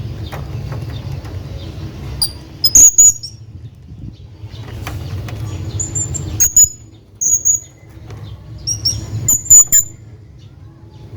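A hanging parrot giving short, very high-pitched calls in several quick bursts, over a steady low rumble.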